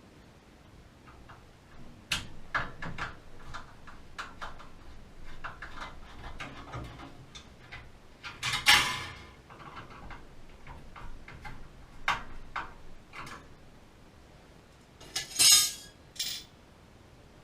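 Metal parts and tools of a gas water heater being handled: a run of small clicks and clinks, with two louder scrapes, about midway and near the end.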